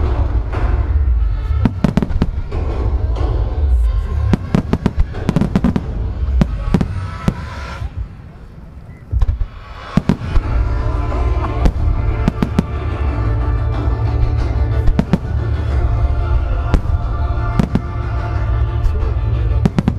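Dense fireworks barrage: many firework shells bursting in rapid succession with sharp bangs and crackle over a heavy low rumble, and music playing along. The barrage thins out briefly about eight seconds in, then a loud bang brings it back to full density.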